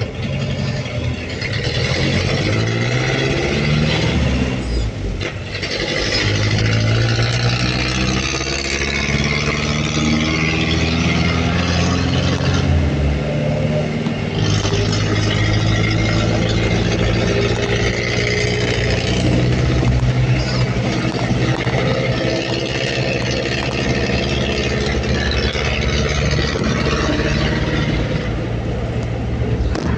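Pickup truck engine accelerating, its pitch rising several times with drops between as it goes up through the gears, then running steadily at cruising speed from about halfway, with road noise.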